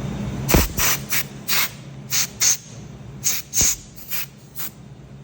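Compressed-air blow gun giving about ten short hissing blasts, clearing debris from a broken exhaust manifold stud that is being drilled out.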